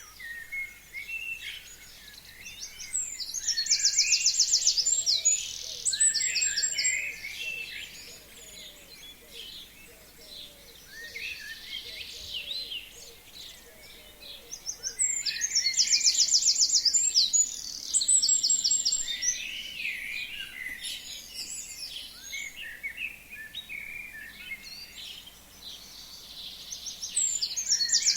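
Forest songbirds singing. One bird repeats a loud, high song of rapid repeated notes lasting about two to three seconds, three times at roughly twelve-second intervals, while other birds chirp and call more softly in between.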